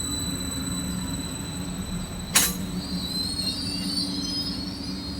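A train running on the rails with a steady low rumble and a steady high whine. There is a sharp click about two and a half seconds in, and the wheels squeal in a high, wavering tone during the last couple of seconds.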